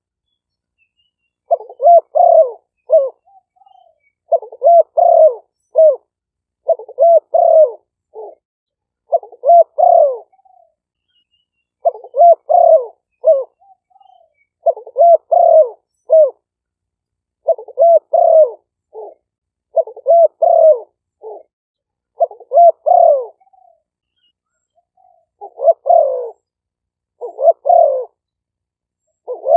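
Male spotted doves cooing. They give repeated phrases of several short coos, one phrase about every two and a half seconds. The recording is noise-reduced, so the gaps between phrases are dead silent.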